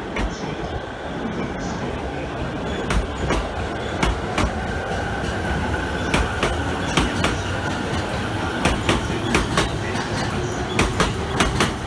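Electric commuter train running into the platform: a steady rumble and whine, with wheel clicks over the rail joints that come faster and louder as it draws in.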